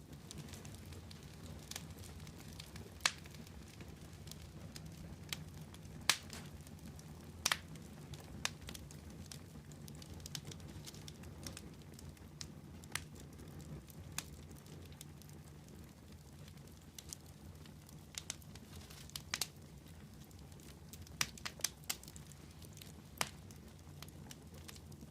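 Wood fire burning with a low steady rumble and sharp, irregular crackles and pops every second or two.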